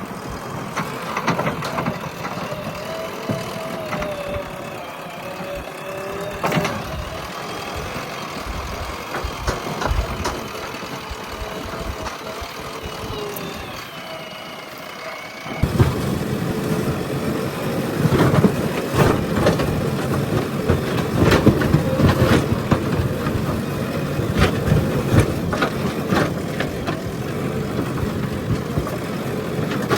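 JCB backhoe loader's diesel engine running under load, with a whine that rises and falls as the hydraulics work. About halfway through it becomes abruptly louder, with repeated knocks and cracks.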